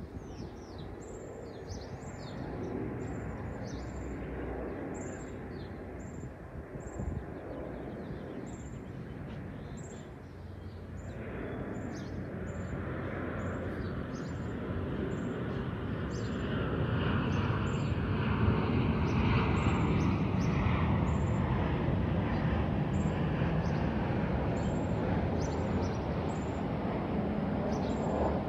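Repeated short, high bird chirps, with a low engine rumble that swells from about a third of the way in and becomes the loudest sound.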